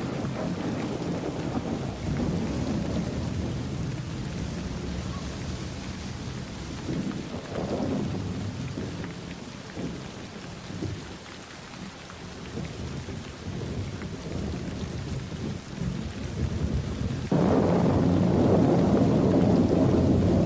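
Thunderstorm: rolling thunder rumbling over steady rain, swelling and fading, then breaking abruptly into a louder, sustained rumble near the end.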